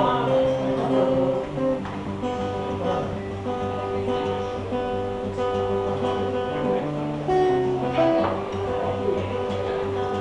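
Acoustic guitar playing the instrumental intro of a folk song, several notes ringing together and changing every second or two.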